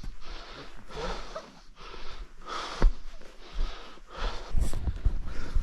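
Wind gusting over the microphone: irregular rushing gusts about a second apart, with low buffeting thuds and a sharp knock about three seconds in.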